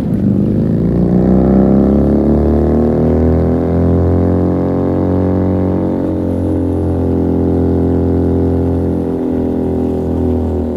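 Motorcycle engine and exhaust pulling up through the revs for the first couple of seconds, then holding a steady droning note while cruising, with a brief dip in revs about nine seconds in.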